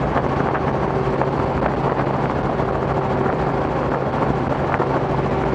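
Robinson R44 helicopter in flight, heard from inside the cabin: the piston engine and rotors run with a steady drone and a constant low hum.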